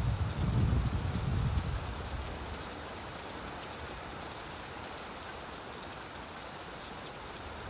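Steady rainfall, an even hiss of rain pattering on surfaces, with a low rumble fading out about two seconds in.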